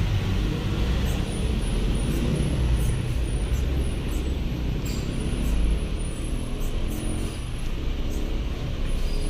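Steady low rumble of road traffic, with faint short high chirps above it.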